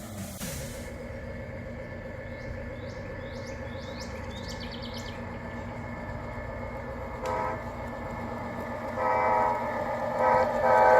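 G-scale model train running on an outdoor garden layout, its onboard sound unit sounding a horn. A short blast comes about seven seconds in, two more around nine to ten seconds, then a louder, longer blast starts at the very end over the steady rumble of the running train.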